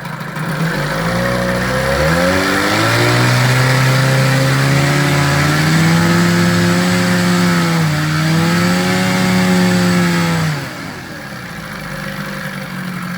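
1991 Johnson 15 hp two-stroke outboard motor running in forward gear in a test tank. It revs up from idle over the first three seconds and holds high throttle, with a brief dip about eight seconds in, then is throttled back to idle about ten and a half seconds in.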